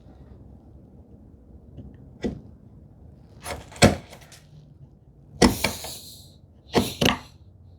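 Hand-tool work on a wooden workpiece at the bench: a series of sharp wooden knocks and taps, some in quick pairs, with a short scraping stroke about five and a half seconds in.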